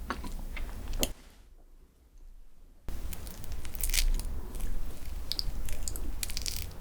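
Close-miked eating of chocolate desserts: crisp crunching bites and wet chewing. There is a quiet pause of about two seconds just after a second in, then louder chewing with crackly clicks.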